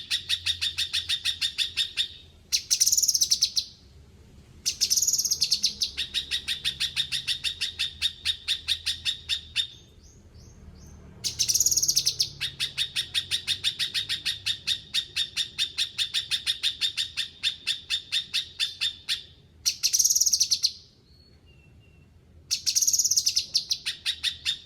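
A cucak kinoi singing vigorously (gacor). Several bouts each open with a short full phrase and run on as long trains of fast, evenly repeated notes. There are brief pauses about ten seconds in and near the three-quarter mark.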